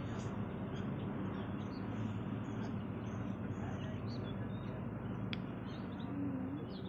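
Small birds chirping now and then over a steady outdoor background noise, with one sharp tick about five seconds in.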